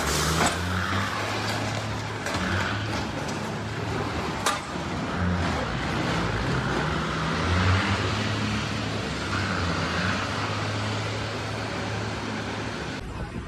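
Car driving along: steady engine hum and road noise heard from inside the vehicle, with a single sharp click about four and a half seconds in.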